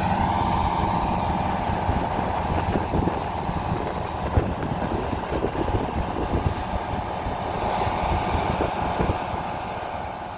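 Heavy harvest machinery running, a steady deep engine drone with irregular knocks and rattles from about two seconds in.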